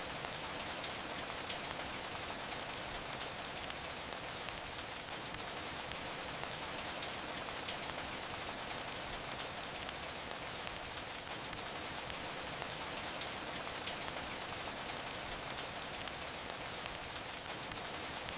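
Steady rain falling, with scattered sharp crackles and pops from a wood fire in a fireplace; the loudest pops come about six and twelve seconds in and near the end.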